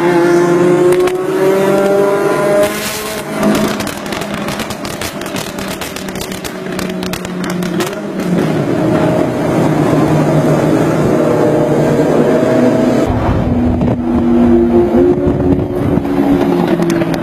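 Ferrari engine revving hard in a tunnel, its pitch climbing for the first few seconds, then dropping and climbing again through the gears.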